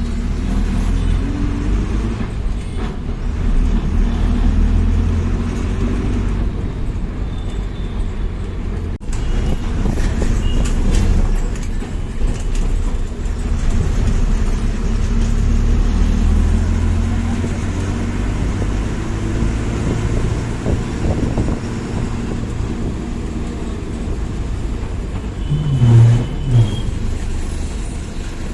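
Steady low rumble of a bus engine with road noise, heard from inside the moving bus. A short, louder low sound stands out near the end.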